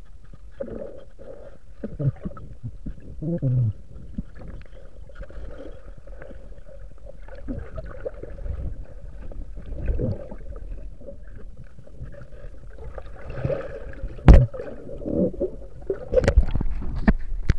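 Water sloshing and gurgling around a bamboo raft drifting on a river, over a steady low rumble, with a few sharp knocks near the end, the loudest about fourteen seconds in.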